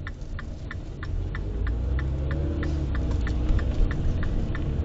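Car engine and road hum heard inside the cabin, with the turn signal ticking steadily at about three clicks a second.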